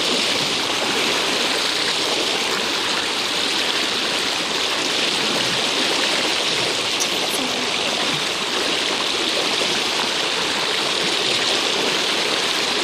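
Creek in flash flood: a steady rush of floodwater running at about bankfull.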